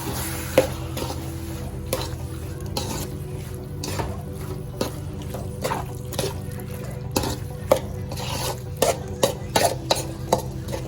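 A spoon stirring chicken with turmeric and ginger-garlic paste in a cooking pan, knocking and scraping against the pan at irregular moments, over a steady low hum.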